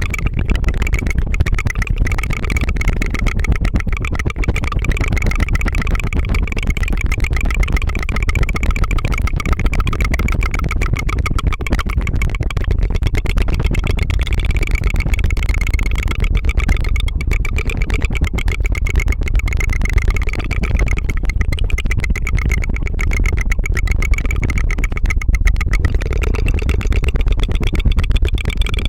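Rapid, continuous tongue fluttering into a close microphone: a steady fast rattling trill with an engine-like putt-putt, unbroken throughout.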